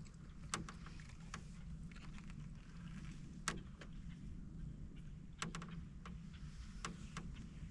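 A canoe being paddled: sharp knocks and creaks from the paddle and the creaky canoe hull every second or two, over a low steady rumble.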